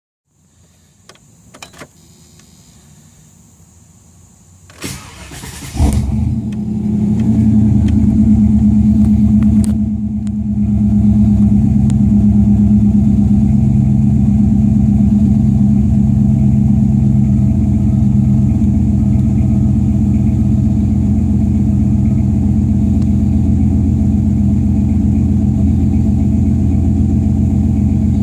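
A 454 (7.4 L) big-block V8 in a 1995 Silverado is cranked and catches about six seconds in. It then idles steadily through a Flowmaster 40 series single-in, dual-out exhaust, with a brief dip around ten seconds. A few clicks come before the start.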